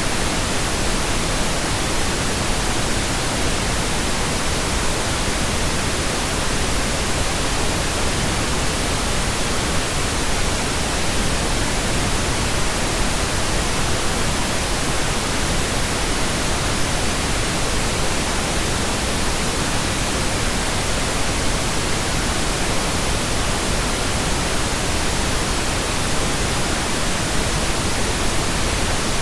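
Steady pink noise generated in Audacity: an even, unchanging hiss spread across the whole range, fuller in the lows than white noise.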